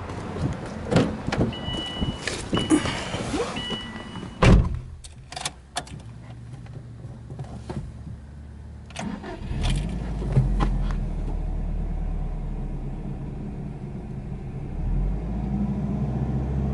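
An electronic warning chime beeps, then a car door shuts with a loud thud about four and a half seconds in. After a few quiet seconds with small clicks, the Subaru Impreza WRX STI's turbocharged flat-four boxer engine is cranked and catches, then settles into a steady fast idle just under 2,000 rpm, heard from inside the cabin.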